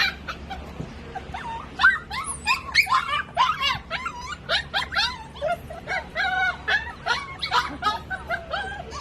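Dachshund whimpering and yipping: a run of short, high calls that waver in pitch, several a second, getting busier about two seconds in.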